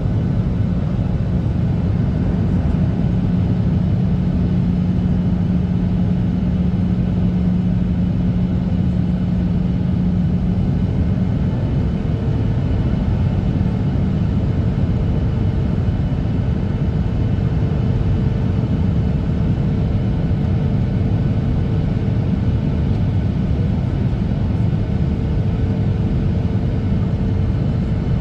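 Boeing 737-800 cabin noise from a seat near the wing: a steady rumble of the CFM56 jet engines and rushing air. A low hum stops about eleven seconds in, and a higher steady tone comes in soon after.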